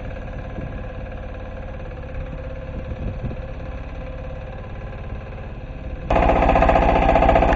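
Diesel engine of an MB2 walk-behind tractor running steadily with an even pulse. About six seconds in it suddenly becomes much louder.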